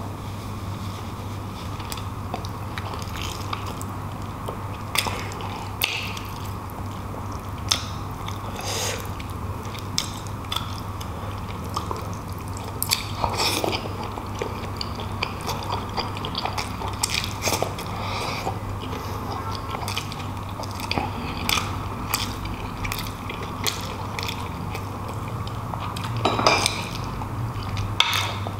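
Close-miked, wet chewing of soft, fatty beef shank meat from bulalo, with many short mouth clicks and lip smacks scattered throughout. A steady low hum runs underneath.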